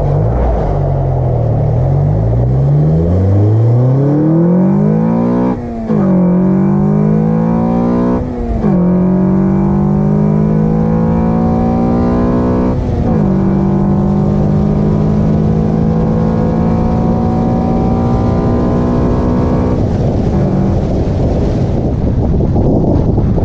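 Car engine with an Acuity cold air intake accelerating through the gears under load: the revs climb and drop sharply at three upshifts, then rise slowly in a higher gear before falling again near the end.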